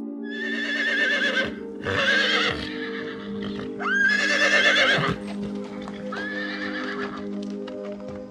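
A horse whinnying four times, each a loud quavering high call about a second long, over steady background music.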